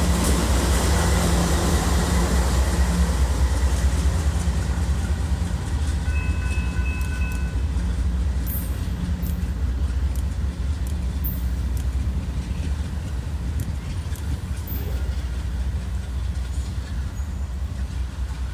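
Train rolling past close by: a steady low rumble from the locomotives and railcars that slowly fades.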